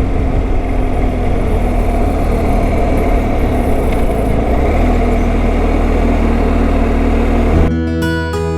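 A motorcycle engine running steadily at road speed, with wind rushing past. Near the end it cuts abruptly to strummed acoustic guitar music.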